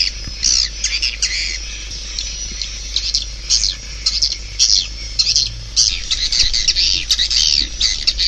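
Swiftlets twittering in rapid, overlapping high-pitched chirps, a colony call recording of the kind played through tweeters as a calling sound to lure swiftlets into a swiftlet house.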